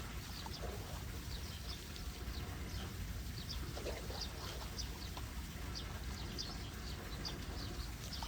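Birds chirping, short high calls scattered irregularly, over a steady low rumble of running water.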